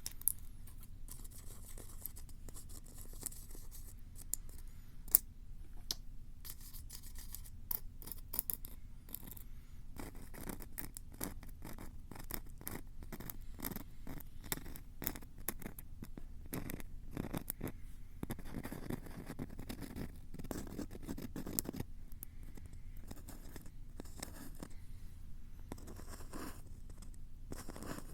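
Close, harsh scratching, tapping and rubbing right at a Tascam recorder's microphones: a run of sharp clicks and scrapes. They are sparse at first, thicken into a dense scratching about a third of the way in, then thin out again near the end.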